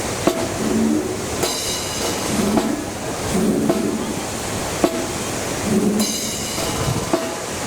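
Marching brass band playing, with short brass notes and sharp drum hits over a steady rush of strong wind buffeting the microphone.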